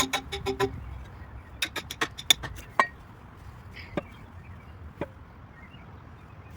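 Sharp hammer knocks on metal: a quick run of strikes with a short ring at the start, a few more a second or so later, then two single knocks spaced about a second apart.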